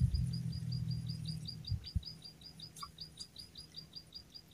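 A small bird calling a rapid, even series of short, high chirps, about five a second. Under it, a low rumble fills the first second and a half, and a thump comes about two seconds in.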